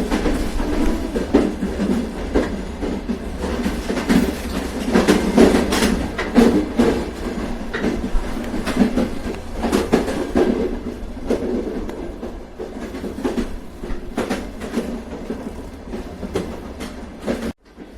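Train running along the track: a steady low rumble with irregular clicks and knocks of the wheels over rail joints. The sound drops out for a moment near the end.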